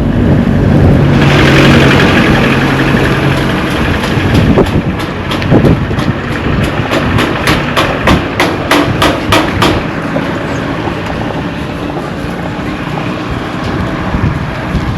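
A motor vehicle passes close by, its engine hum and a rising rush of noise loudest about two seconds in, with wind buffeting the microphone. From about five seconds in comes a run of sharp ticks, about four a second, for some five seconds.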